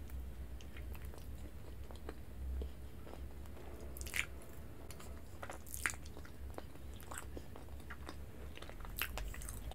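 Close-miked mouth sounds of biting into and chewing a soft Japanese strawberry mochi: scattered small clicks and smacks, the sharpest about four, six and nine seconds in.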